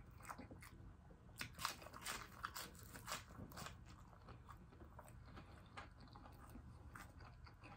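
Chewing through crispy battered fried fish and shrimp: a run of short, sharp crunches and crackles, thickest in the first half and thinning out later.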